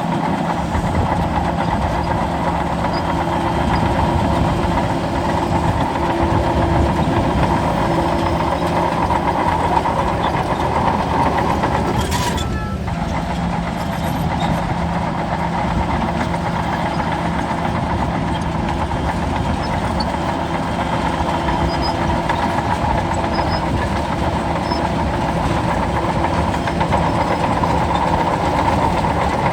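Bulldozer's diesel engine running steadily, with a brief sharp sound about twelve seconds in.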